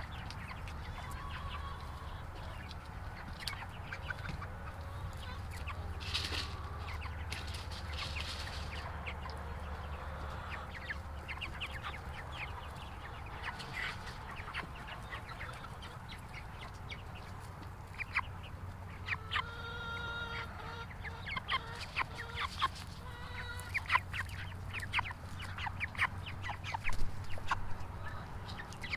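A flock of chickens clucking and peeping in short calls, growing busier and louder in the second half.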